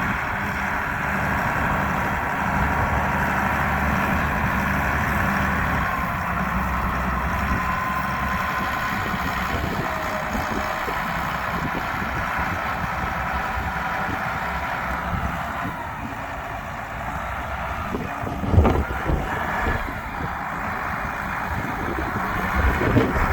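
Case IH 5140 tractor's diesel engine running steadily, with a faint whine over the engine drone. A few sharp knocks come about eighteen seconds in, the loudest moment.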